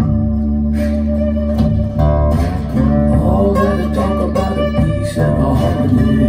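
Guitar music playing through Harbeth Super HL5 Plus loudspeakers. It is an instrumental passage of plucked guitar notes over a held low bass tone, with no singing.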